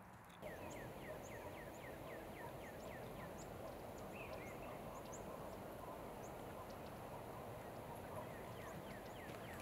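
Faint birdsong in the woods at dawn: a bird repeats a short falling note about three times a second, with scattered faint high chirps from other birds over a steady background hiss.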